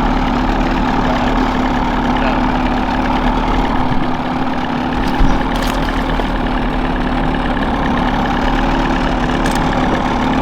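Boat motor running steadily at trolling speed, with a short knock about five seconds in and a fainter click near the end.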